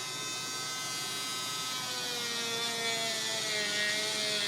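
Small handheld electric sanding tool running steadily with a high motor whine, sanding the yellowed rubber toe box of a sneaker; its pitch sags slightly in the second half.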